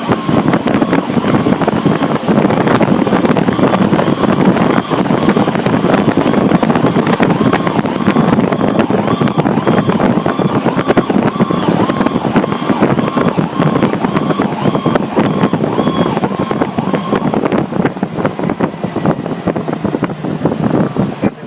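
Fire truck running, heard from inside the cab, with a loud steady rumble and road noise. Over it a repeating electronic beep pulses on and off until it stops about 17 seconds in.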